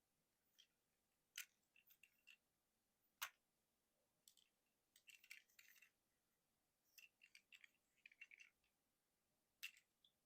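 Faint, scattered clicks and small clusters of clicks from the plastic joints and parts of a Transformers Legacy United Voyager Class Motormaster action figure as it is transformed by hand, with the sharpest click about three seconds in.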